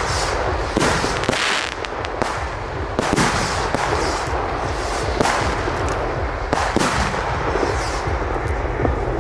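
Fireworks display: a steady run of sharp bangs from bursting shells, coming irregularly and sometimes several a second, over continuous crackling and a low rumble.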